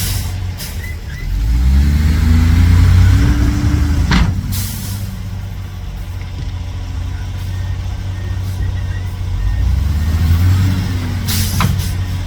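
Heavy diesel truck engine idling and revving up and back down twice, with a short sharp hiss of air about four seconds in and another near the end.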